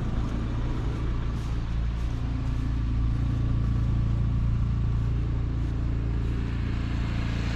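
A car engine running steadily with an even, low hum that holds a constant pitch, typical of idling.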